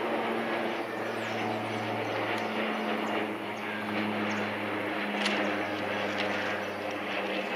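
Steady diesel engine drone from a passenger train moving away along the track, a low hum with a faint rise and fall in pitch over a rumbling haze.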